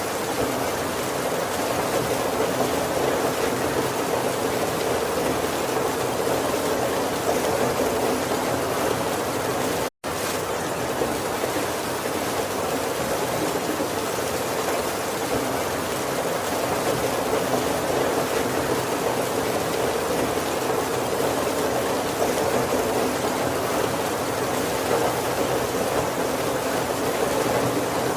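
Heavy rain falling steadily on a wooden carriage roof, an even, unbroken hiss of drops. About ten seconds in, the sound cuts out to silence for a split second and then resumes.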